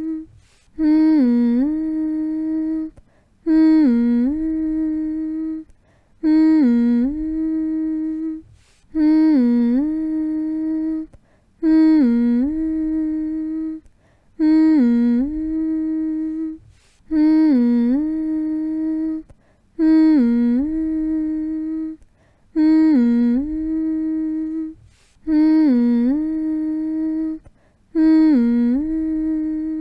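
A person humming a soothing "mm-hmm" phrase over and over, about once every three seconds. Each phrase dips briefly in pitch and comes back up to a long held note, with a short pause before the next one.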